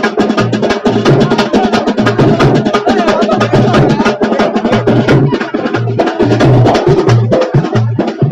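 Loud, fast drumming: dense sharp strikes over a deep beat that falls about twice a second.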